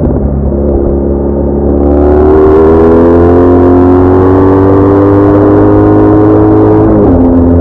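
BMW R1200R flat-twin engine under way, its pitch climbing slowly as the bike accelerates through a gear, with wind noise rising alongside. About seven seconds in, the pitch drops sharply at a gear change.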